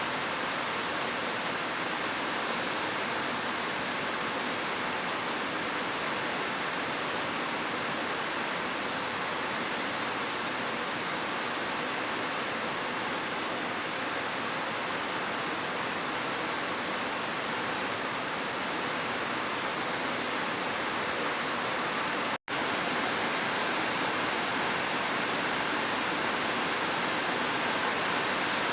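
Heavy rain falling as a steady, even hiss, with a split-second dropout about two-thirds of the way through.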